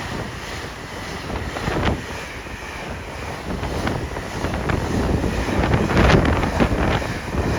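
Wind buffeting the microphone with a gusty rushing noise, swelling again in the second half, in the slipstream of a train that has just passed.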